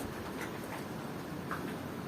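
Tropical rain falling steadily, with a few separate drops tapping.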